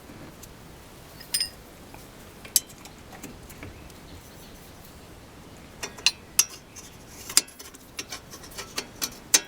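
Steel spanners clinking and clicking against the front brake caliper's guide-pin bolt as it is held and loosened: a few sharp metallic clinks early on, then a quicker run of them in the last few seconds.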